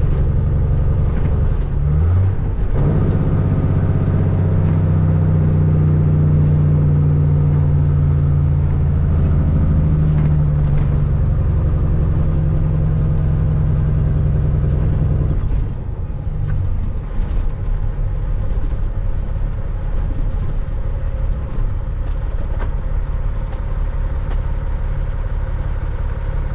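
Caterpillar 3406E diesel in a Freightliner FLD120 with its Jake (engine compression) brake on, a loud, steady engine note that steps in pitch about two to three seconds in. About fifteen seconds in it cuts off and the engine runs on quieter, the brake released.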